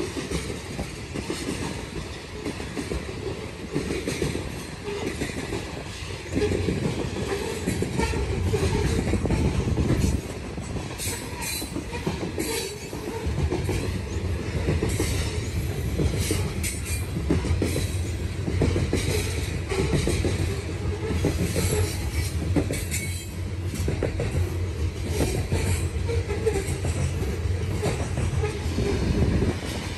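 A long freight train of open-top coal gondola cars rolling past, a steady heavy rumble and rattle of the cars and wheels, with brief high wheel squeals now and then.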